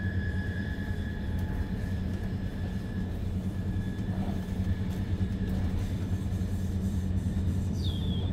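Swiss double-deck push-pull commuter train (Re 450 DPZ) running at speed, heard from inside a passenger coach: a steady low rumble with a faint, steady high whine. Near the end there is a short high tone that falls in pitch.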